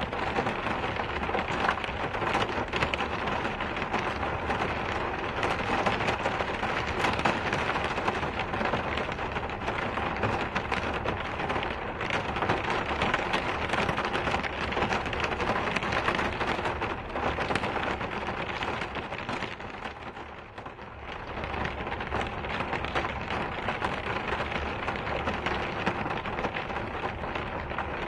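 Steady rain falling, a dense, even patter of drops that eases briefly about twenty seconds in.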